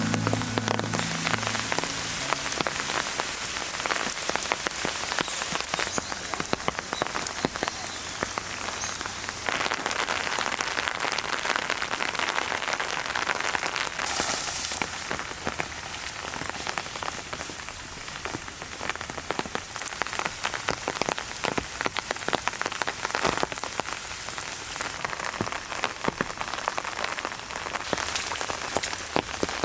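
Heavy rain falling: a steady hiss thick with many sharp individual drop hits. Low background music fades out in the first few seconds.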